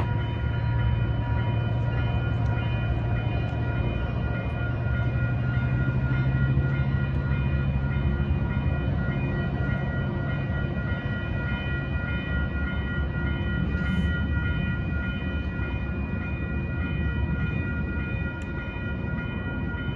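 Metrolink commuter train rolling slowly through a level crossing, with a steady low diesel rumble that eases after about twelve seconds. Over it the crossing warning bell rings steadily as a high, pulsing tone.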